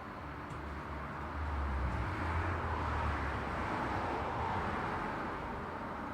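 Road traffic with a vehicle passing by: engine rumble and tyre noise swell to a peak about three seconds in, then fade away.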